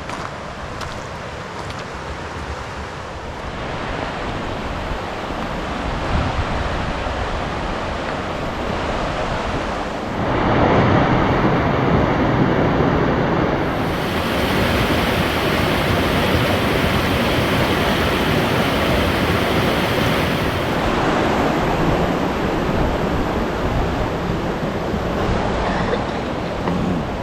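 Creek water rushing over rocks, a steady rush that gets louder about ten seconds in.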